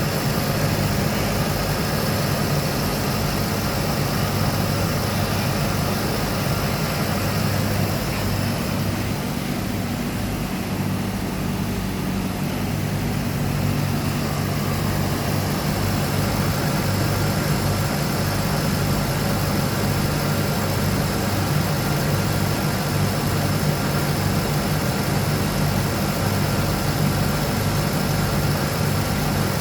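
2008 Cadillac XLR-V's 4.4 L supercharged V8 engine idling steadily.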